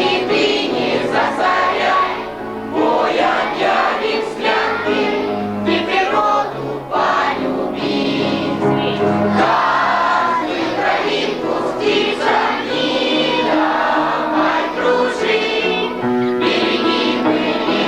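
A group of voices singing a song together over instrumental accompaniment.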